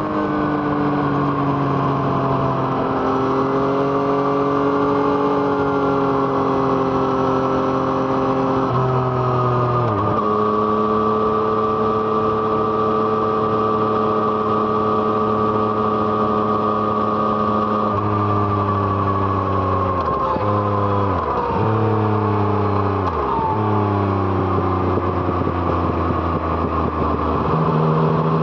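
Yamaha MT-09's three-cylinder engine through an Arrow Thunder exhaust, heard while riding. It mostly runs at a steady engine speed. The engine note drops sharply about ten seconds in and dips briefly three more times past the middle.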